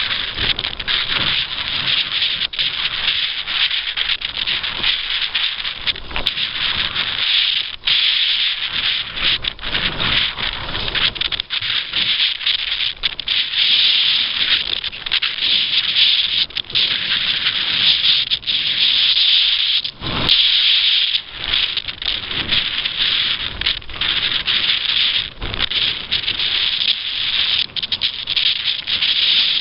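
Continuous rushing hiss of water and wind on a small sailing craft under way, flickering rapidly in level with brief dips.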